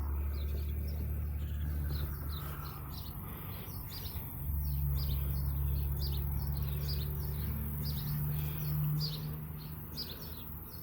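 Pool pump motor running with a steady low hum while the pool is vacuumed. The hum weakens about two seconds in and comes back strongly about four and a half seconds in. Birds chirp repeatedly over it.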